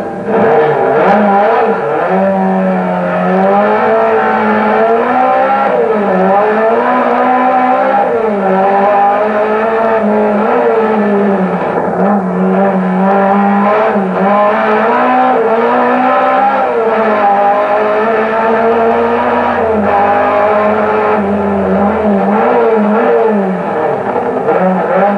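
Car engine revving hard while driven fast, its pitch rising and falling over and over as the car accelerates and eases off.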